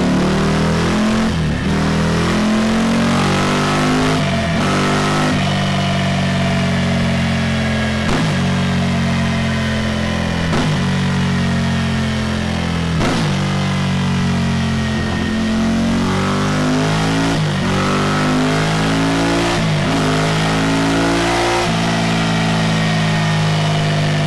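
Ducati Scrambler Desert Sled's 803 cc air-cooled L-twin running loud through a Delkevic DS70 carbon-fibre oval slip-on silencer. It holds fairly steady revs, with a brief dip every two to three seconds.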